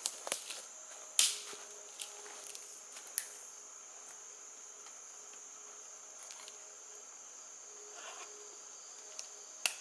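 A steady, high-pitched insect drone, with a fainter lower hum under it. Scattered sharp clicks cut through it, the loudest about a second in and another near the end.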